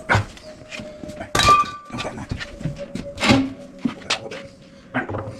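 Irregular knocks and clanks of metal tools and pipe fittings being handled. One clank about a second and a half in rings briefly. A faint steady hum runs underneath.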